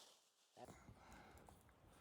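Near silence: a moment of dead silence, then faint background hiss with a few tiny ticks.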